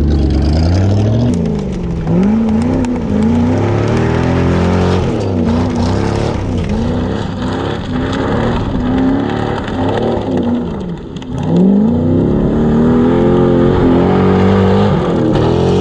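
Chevrolet Corvette's V8 revving up and down again and again as the car slides sideways on dirt, the engine note rising and falling with the throttle. The revs dip briefly about eleven seconds in, then surge again.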